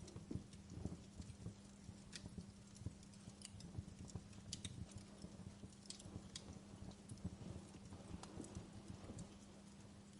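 Wood fire burning in a fireplace, crackling softly with irregular sharp pops and snaps, over a faint steady low hum.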